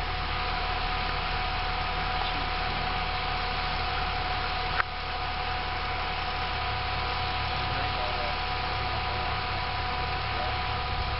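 Lifted Jeep Cherokee idling on a rock-crawling trail, heard under a steady hum and hiss, with one sharp click about five seconds in.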